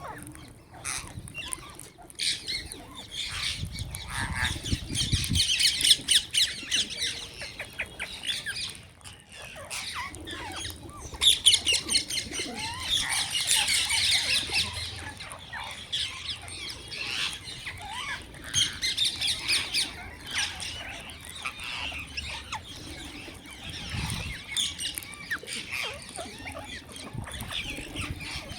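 A crowd of birds chirping and squawking at once, a dense, unbroken chatter of overlapping short calls that swells about four seconds in and again around twelve seconds.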